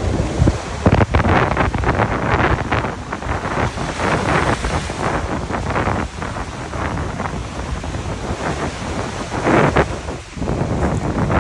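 Sea waves breaking and washing up the beach in repeated surges, with wind rumbling on the microphone.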